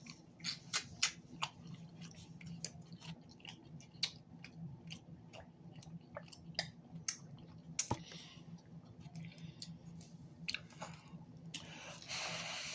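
Close-up chewing of loaded flatbread pizza: irregular mouth clicks and smacks over a faint steady low hum, with a breathy exhale near the end.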